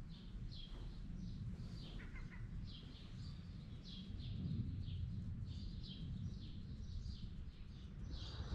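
Small birds chirping: a steady string of short, high, downward-sliding notes, about two a second, over a low continuous rumble.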